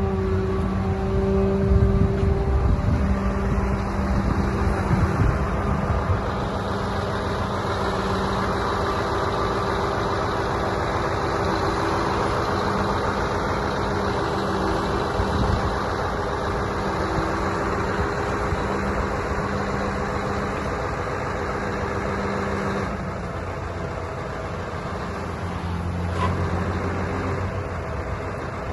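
Scania T144-530 V8 diesel engine running steadily, a little louder with extra low rumble in the first few seconds and slightly quieter near the end.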